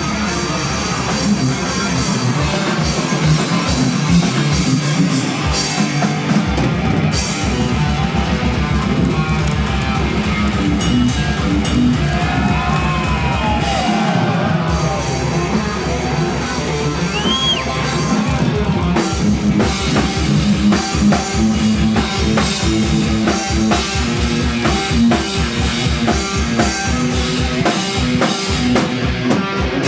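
A rock band playing heavy metal live: distorted electric guitars over a drum kit, with rapid, even bass drum strokes through most of the passage and a few guitar pitch bends midway.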